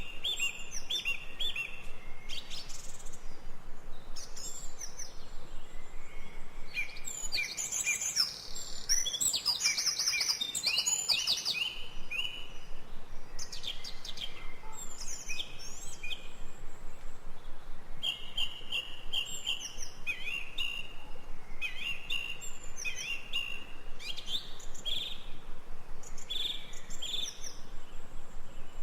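Songbirds chirping and singing in a nature-sound recording: many short repeated chirps and trills, with a busier stretch of overlapping calls about a third of the way in.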